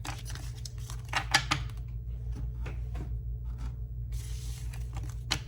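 Tarot cards being handled and shuffled: irregular papery rustles and light clicks, the sharpest about a second and a half in and near the end, over a steady low hum.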